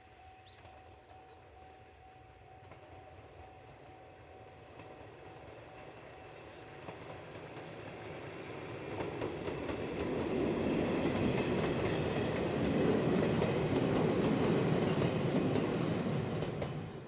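Izuhakone Railway ED31-class electric locomotive hauling a 5000 series EMU set as it approaches and passes. The running noise of wheels and motors builds slowly, grows loud about two-thirds of the way in, then cuts off suddenly.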